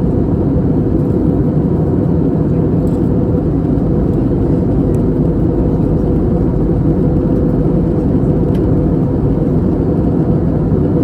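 Steady low cabin rumble of an Airbus A320neo in flight, its Pratt & Whitney PW1100G geared turbofans and the airflow over the fuselage running evenly, with a faint steady hum in it.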